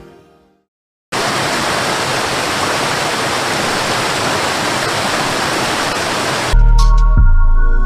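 A steady rushing noise that starts suddenly after a moment of silence and runs for about five seconds, then is cut off by electronic music with heavy bass. Before the silence, music fades out.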